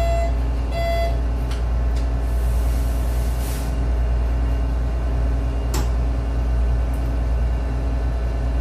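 Ship's main diesel engine running, a loud steady deep drone with a slow pulsing beat. Two short beeps sound right at the start, and a burst of air hiss comes about two seconds in and lasts over a second.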